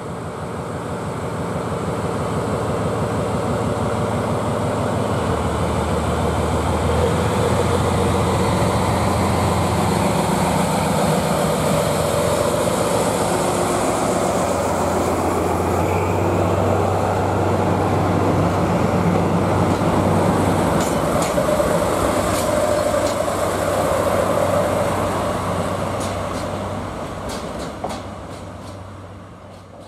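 Diesel-hauled track-inspection train passing close by: the locomotive's engine runs with a steady low hum as it draws level. Then the coach rumbles past, with sharp wheel clicks over the rail joints near the end before it fades away.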